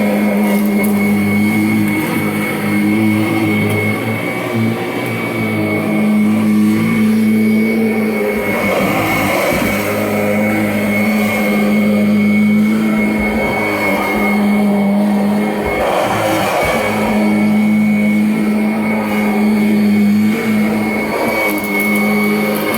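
Kirby Avalir upright vacuum cleaner running: a steady motor hum with a high whine over it. The low hum weakens and returns every few seconds.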